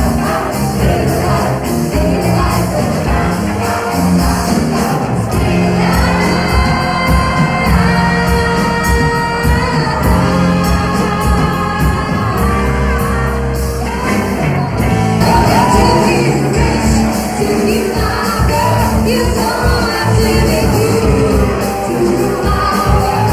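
Live band playing a disco-funk number, with a lead voice singing held notes over a steady beat.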